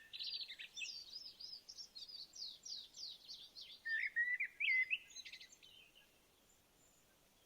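Small birds singing: rapid high chirps and trills, with several quick runs of notes, fading out about five and a half seconds in.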